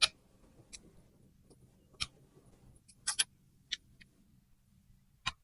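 Sparse, irregular sharp clicks and crackles, about eight over five seconds, from a lychee being eaten up close.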